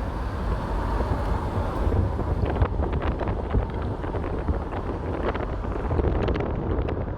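Car driving along a road, heard from inside the cabin: a steady low engine and tyre rumble with wind noise, and a few short clicks about a third of the way in and again near the end.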